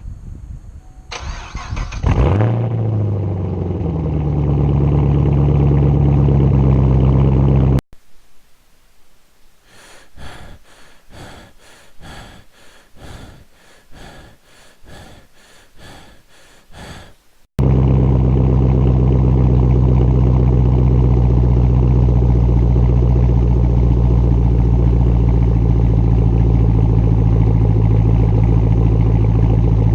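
2015 Camaro SS 6.2-litre V8 with muffler and resonator delete and an X-pipe, cold-started: the starter cranks briefly, the engine catches and settles into a loud, steady idle. Partway through, the engine sound cuts off abruptly for several seconds, leaving a much quieter stretch of regular ticks about twice a second, before the same loud idle returns.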